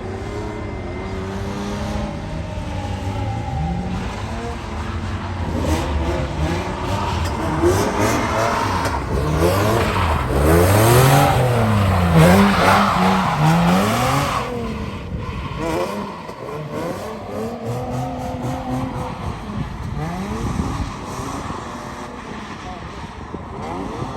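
Drift car engine revving hard, its pitch swinging up and down again and again as the car slides, loudest about halfway through, then dropping back to lower revs.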